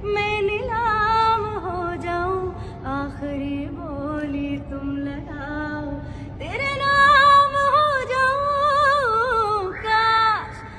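A woman singing a slow, ornamented melody with wavering, sliding held notes over a faint backing. About six and a half seconds in, she swoops up into a higher, louder phrase.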